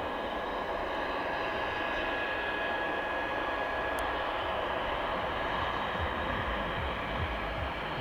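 Airbus A400M turboprop transport running on the ground during start-up: a steady rushing turbine noise with a thin, steady high whine, and low fluttering rumble building in the second half. A single click about halfway through.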